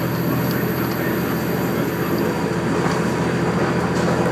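KiHa 47 diesel railcar running at speed, heard from inside the passenger cabin: a steady low engine hum under the continuous rumble of wheels on the rails.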